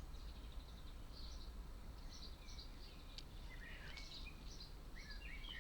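Faint chirping of a small bird, a scattered series of short high chirps and twitters, over a low steady hum. A small click about three seconds in.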